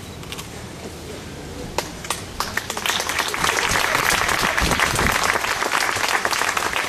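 Crowd applauding: a few scattered claps about two seconds in, swelling into full applause a second later.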